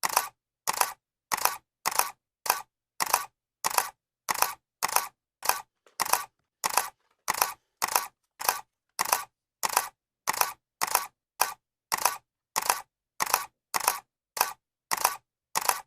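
Camera shutter clicking over and over, about two clicks a second, each click a quick double snap.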